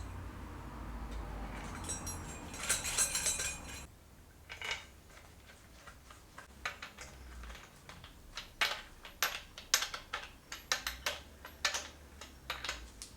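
Small steel parts and hand tools clinking against each other while flywheel bolts are fitted to the crank: a brief metallic rattle about three seconds in, then a run of irregular sharp clinks.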